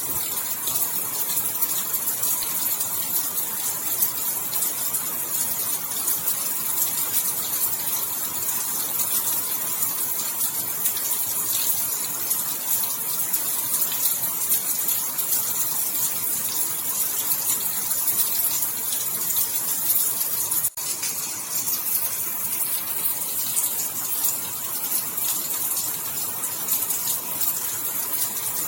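Steady rain falling, a dense even hiss of many drops, broken by a momentary dropout about two-thirds of the way through.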